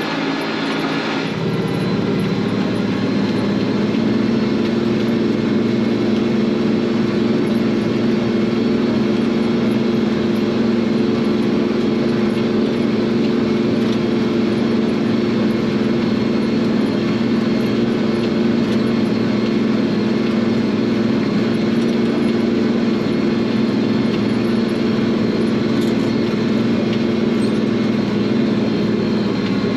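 International Harvester 1086 tractor's turbocharged six-cylinder diesel running steadily under load while pulling a field cultivator through the soil. Its note shifts about a second in, then holds even.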